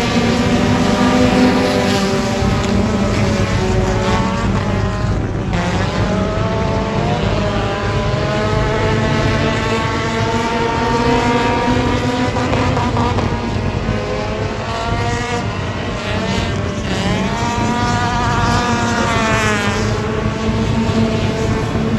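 Race car engines running hard on a dirt oval, their pitch climbing and falling repeatedly as the cars accelerate and lift.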